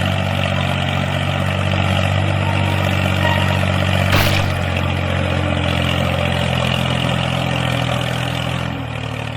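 Tractor engine idling steadily, a low even running sound, with a brief swish about four seconds in.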